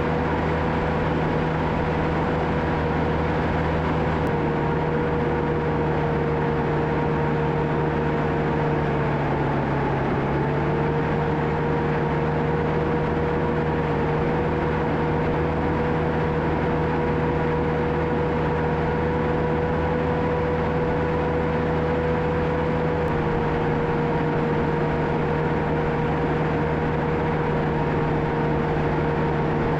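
John Deere 650K crawler dozer's diesel engine running steadily with a high steady whine over it; the pitch dips briefly about a third of the way in and then recovers.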